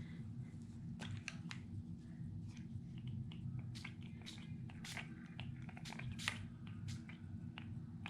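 A hand-pumped mist spray bottle of gold shimmer paint being sprayed in many quick, irregular spritzes onto paper, some leaving blobs.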